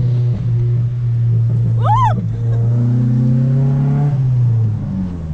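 Straight-piped Honda Civic exhaust droning steadily under way, its pitch dropping about four and a half seconds in as the revs come down. A brief high rising-and-falling whoop sounds about two seconds in.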